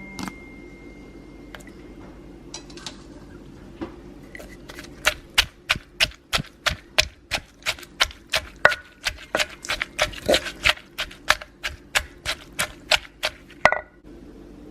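A knife chopping on a cutting board in a fast, even rhythm of sharp strikes, about three a second, after a few scattered taps.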